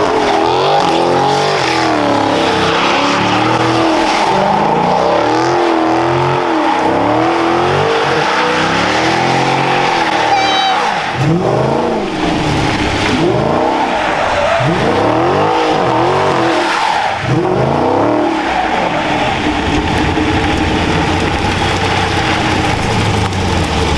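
Dodge Hellcat's supercharged V8 revving up and down again and again under hard driving, with tyres skidding and squealing, as in a donut.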